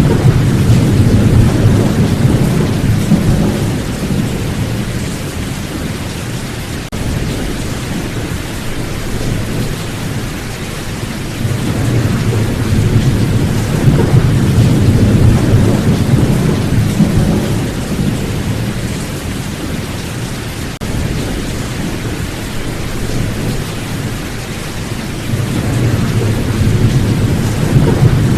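Steady rain with rolling thunder. Low rumbles swell and fade three times: near the start, around the middle, and near the end.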